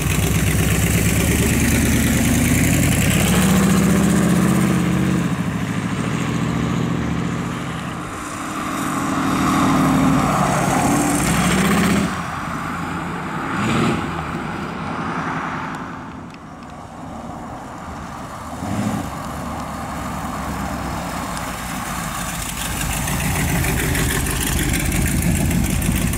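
A T-bucket hot rod's 283 small-block Chevrolet V8 with chrome headers, revving and pulling away. Its sound fades as the car drives off, then grows louder again as it comes back and pulls in near the end.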